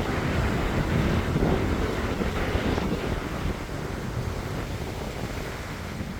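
Wind buffeting the microphone over the wash of sea waves, loudest at first and easing off gradually.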